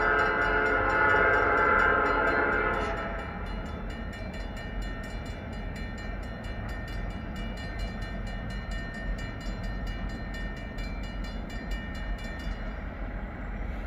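Canadian National freight locomotive's air horn sounding loudly for about the first three seconds, then the train running by with a steady low rumble and a fast, regular ticking that stops near the end.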